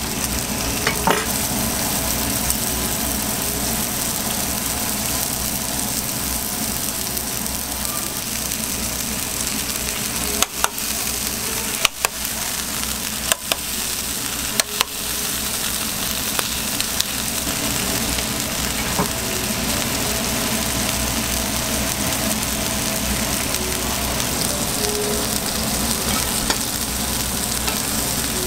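Hamburger patties sizzling on a hot flat-top griddle: a steady frying hiss. A few sharp clicks come about halfway through.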